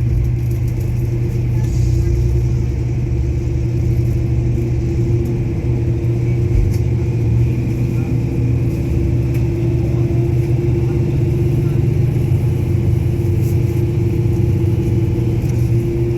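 Steady low rumble of a moving vehicle, with a constant low drone and a fainter steady hum above it.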